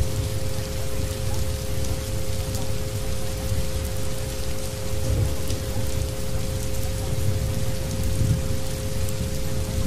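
Steady rain falling and pattering, with a deep low rumble underneath. Two steady mid-pitched tones, the soundscape's frequency track, are held over the rain.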